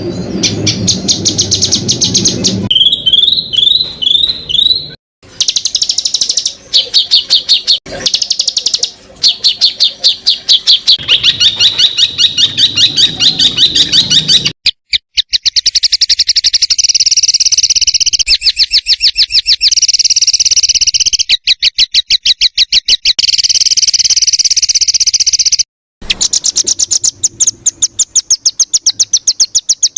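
Songbird song spliced from several recordings: dense, rapid-fire trills and chattering bursts of high notes, the 'tembakan' fills prized in masteran. The song changes abruptly every few seconds, with a short series of slurred whistles near the start.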